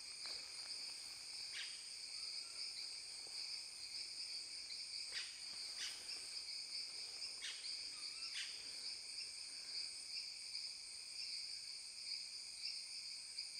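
Continuous chorus of insects: a steady, high-pitched drone in several layered pitches with no pauses. A few faint short clicks or rustles are scattered across it.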